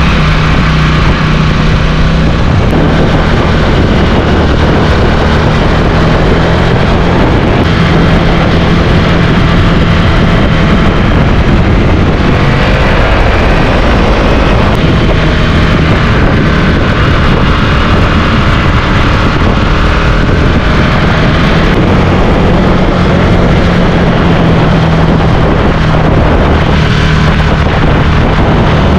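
Motorcycle engine running steadily at cruising speed, mixed with heavy wind rushing over the microphone.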